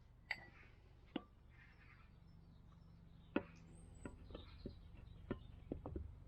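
Scattered sharp clicks and knocks of metal parts and tools being handled, a few spaced apart and then a quicker cluster near the end, over a low steady hum.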